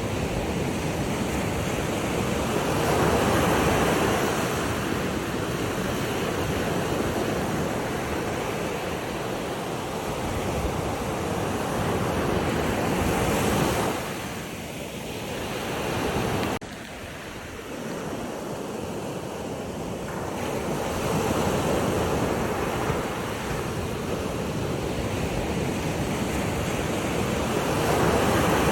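Ocean surf: waves washing in and drawing back, the rush of water swelling and easing every several seconds. About halfway through the sound drops off suddenly, then builds again.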